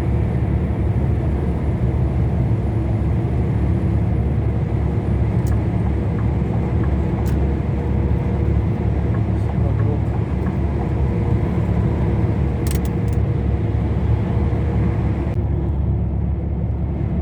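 Truck engine and road noise heard from inside the cab while driving, a steady low rumble.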